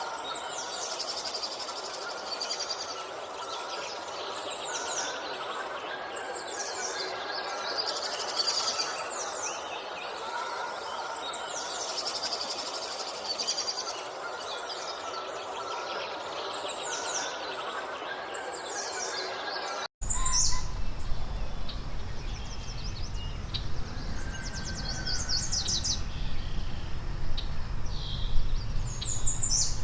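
Birds chirping and calling, many short notes sweeping downward, over a steady background hiss. About twenty seconds in, the sound cuts abruptly to a louder passage of bird chirps over a low rumble.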